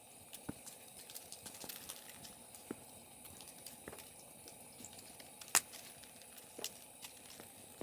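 Wood campfire crackling, with irregular sharp pops and one louder snap a little over halfway through.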